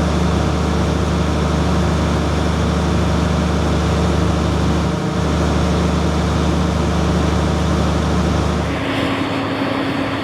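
A large vehicle engine running steadily with a deep, even drone. Near the end the low drone drops away and a thinner, higher hum takes over.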